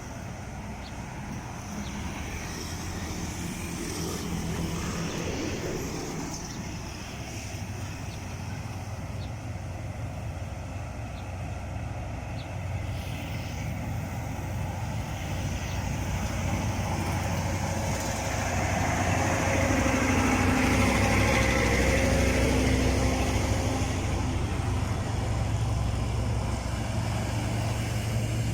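Road traffic with trucks passing: a heavy diesel engine running low and steady, growing louder past the middle as a vehicle draws near.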